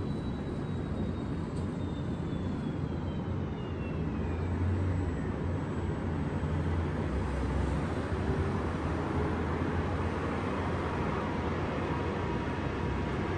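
Steady city traffic din with a low rumble. During the first few seconds a thin high whine slowly falls in pitch.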